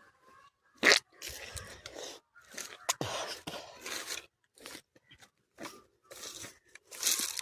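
Irregular crunching and scraping noises in short bursts, with a sharp crack about a second in and another near three seconds.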